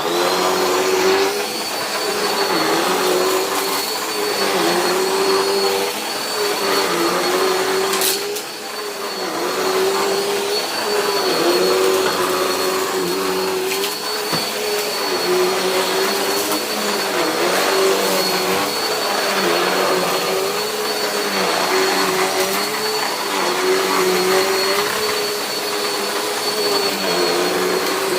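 Dirt Devil Power Express upright vacuum cleaner running on carpet, its motor pitch dipping every second or two as it is pushed back and forth, over a steady high whine. The brush roll sounds odd, which the owner puts down to an old, worn brush roll that needs replacing.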